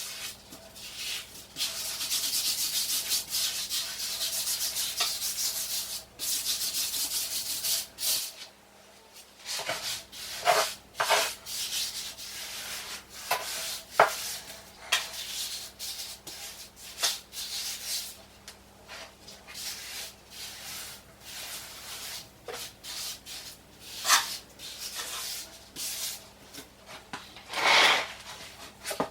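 A trowel scraping across gritty sand-and-cement mortar, working and smoothing the pan. The scraping runs steadily for the first few seconds, then breaks into separate strokes with an occasional light knock.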